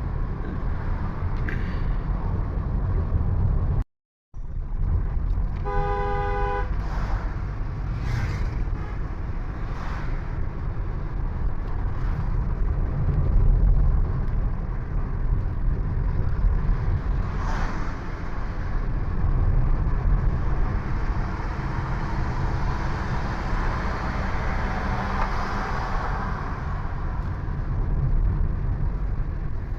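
Steady low road and wind rumble from a vehicle on the move. A vehicle horn sounds once, briefly, about six seconds in, and the sound cuts out completely for a moment just before that.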